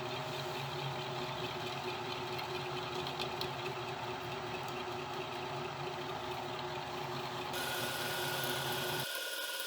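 Home-built CNC milling machine running, its spindle turning a compression wood end mill in MDF, with a steady hum and whine. The sound changes abruptly about seven and a half seconds in, and the low hum drops away just before the end.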